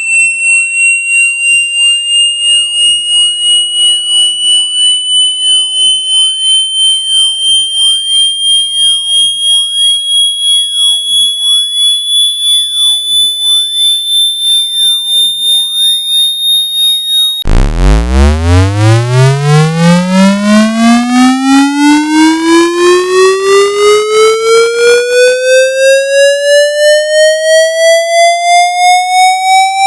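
Electronic water-eject tone for shaking droplets out of a phone. A high, pulsing tone rises slowly in pitch, then about two-thirds of the way through it cuts to a low tone that sweeps steadily upward, pulsing about twice a second.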